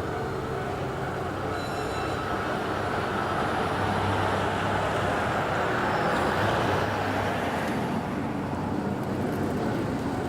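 Shizuoka Railway 1000-series electric train running past at close range, its rolling noise swelling to a peak midway and then easing off.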